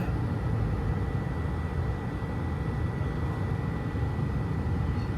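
A car driving along a country road, heard from inside the cabin: a steady low rumble of engine and tyre noise.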